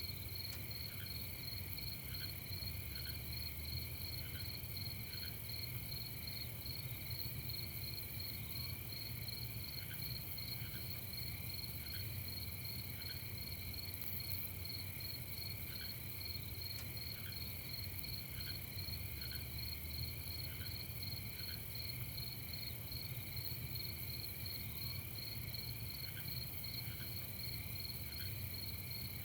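Nighttime chorus of crickets trilling steadily in several overlapping pulsing tones, with a fainter chirp repeating about once a second in short runs. A constant high hiss and a low steady rumble run underneath.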